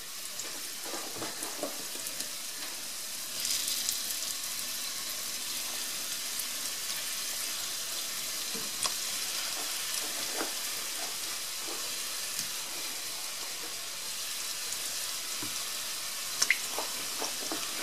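Pieces of green jackfruit frying in hot rapeseed oil in a ceramic pan: a steady sizzle that swells slightly as more pieces go in about three and a half seconds in, with occasional light clicks as pieces are set down.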